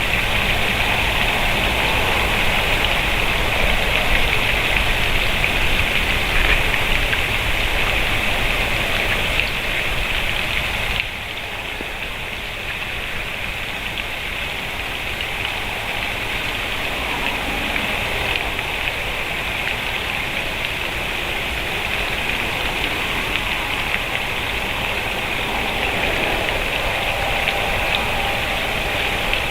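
Steady rushing noise, like rain, that drops a little in level about eleven seconds in.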